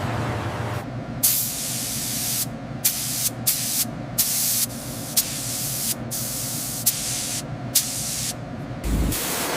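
Hissing spray in a series of on-off bursts of uneven length, starting and stopping about a dozen times.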